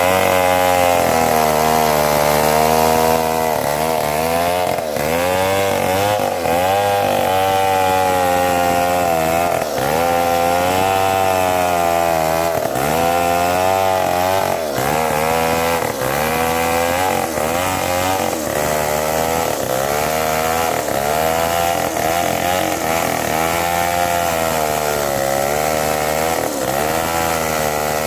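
Chainsaw cutting mahogany wood at full throttle, its engine pitch dipping and rising again every second or two as the chain loads up in the cut and frees.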